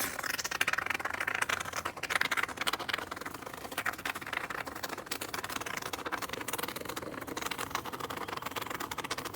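Can of expanding spray foam dispensing: a dense, rapid crackling sputter with hiss as foam spits from the nozzle, starting suddenly.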